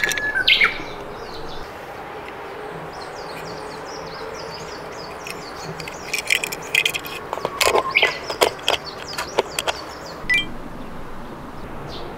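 Small birds chirping and tweeting over a steady background hiss. About halfway through comes a run of sharp clicks and clacks lasting a few seconds.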